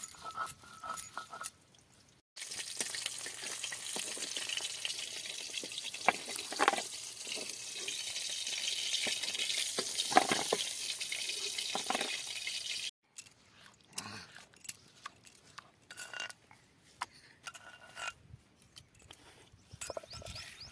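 Kitchen cooking sounds from a pot or pan: a steady hiss lasting about ten seconds with a few knocks of a utensil, then scattered clinks and taps of metal utensils.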